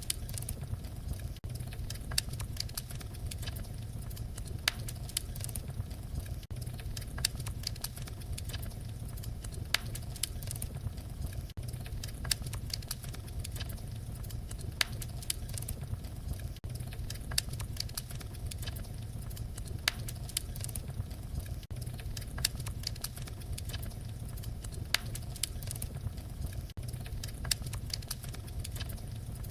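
Fire crackling: a steady low rumble with frequent sharp pops and snaps, several a second.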